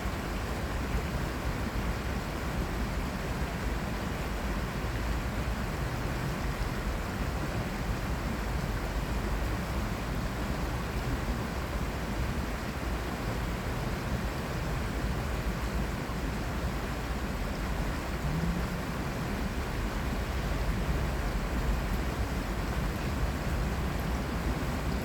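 Steady urban stream ambience: the low rumble of city traffic blended with water flowing along the Cheonggyecheon's channel, even and unbroken.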